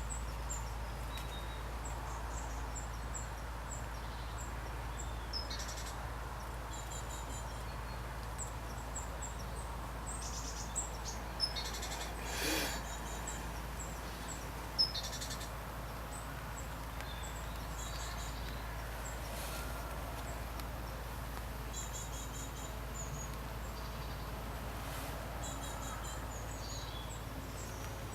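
Steady rain hiss over a low rumble, with many short, high, thin bird calls scattered throughout. A couple of sharp knocks stand out around the middle.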